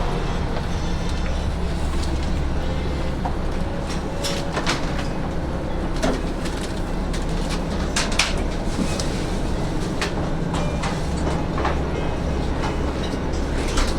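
A train's steady low rumble, with scattered sharp clicks and knocks over it, the clearest about a third and about halfway through.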